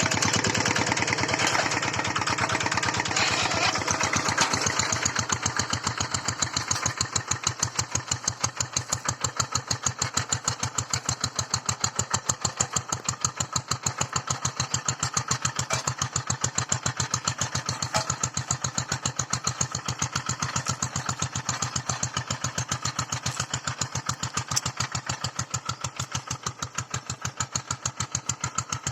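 Hand tractor's engine chugging with an even, steady pulse as it works the soil, louder and harsher for the first few seconds before settling to a steadier beat.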